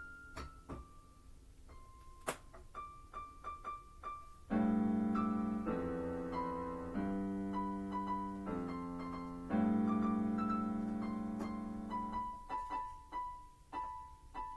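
Background piano music: sparse single notes, then loud sustained chords from about four seconds in, returning to single notes near the end.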